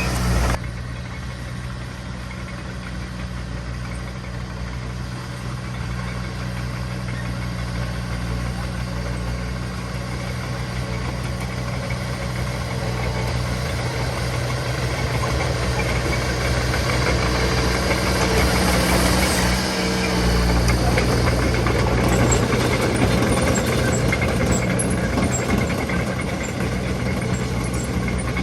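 Diesel engine of heavy earthmoving machinery running steadily with a low hum. It gets a little louder after about twenty seconds.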